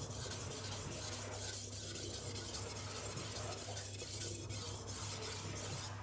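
Cleaver blade scraping back and forth on a 1000-grit silicon carbide whetstone in repeated sharpening strokes, a continuous gritty rasp that swells and dips with each pass while a burr is being raised along the edge. A steady low hum runs underneath.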